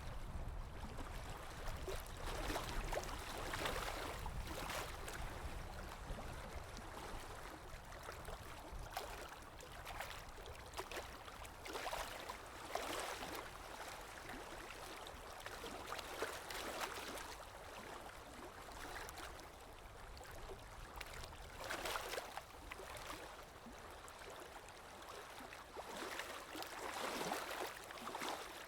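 Water lapping with wind: a steady wash of noise that swells every few seconds as small waves lap, over a low wind rumble.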